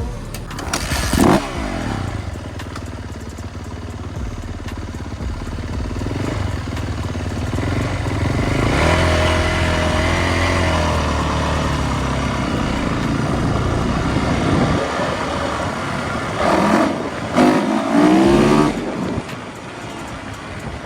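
Motor vehicle engine running steadily, revving up and easing back down around the middle, with a few short louder bursts near the start and near the end.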